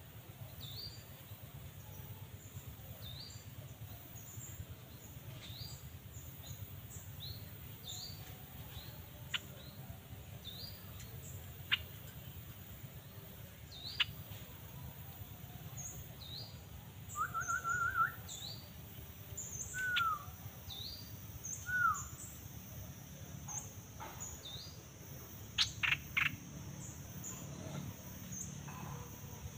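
Birds calling: a steady run of short, high chirps about twice a second, with a few louder sharp calls, a brief trill and two falling whistled notes in the middle, and a cluster of sharp calls near the end.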